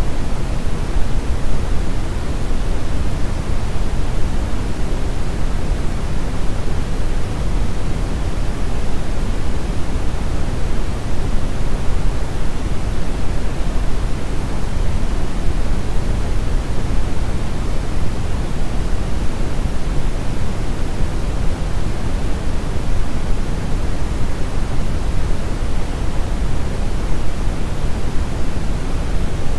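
Steady brown noise: a constant deep rushing hiss, strongest in the bass and rolling off toward the treble, with no change or events.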